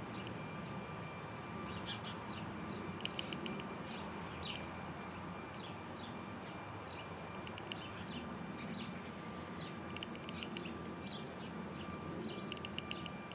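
Small birds chirping and twittering, with quick rattling trills about three seconds in and again near the end, over a steady low background rumble and a faint steady high whine.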